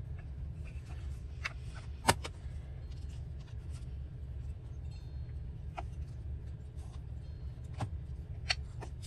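Small clicks and taps of craft supplies being handled on a tabletop while a vine stamp is inked and pressed onto paper, with one sharper tap about two seconds in, over a steady low hum.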